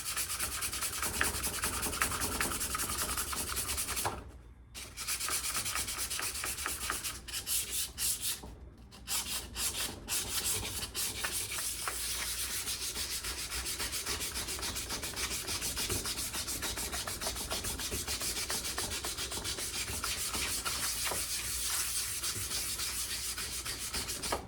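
Sandpaper rubbed back and forth quickly on an old rusty axe head, removing the rust, in a steady run of fast strokes broken by two short pauses about four and eight seconds in.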